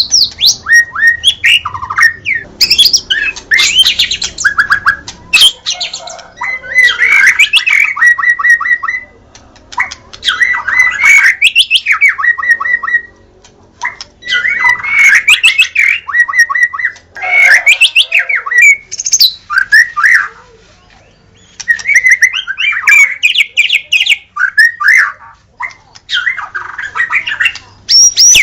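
White-rumped shama (murai batu) singing loudly: varied phrases of rapid whistled notes and glides, broken by short pauses of about a second.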